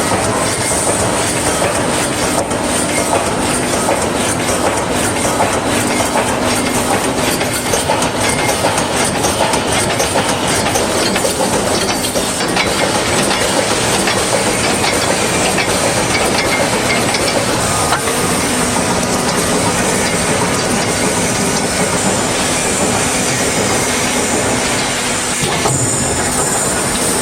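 Automatic wire mesh welding machine running steadily, a dense clatter of rapid clicks over continuous noise.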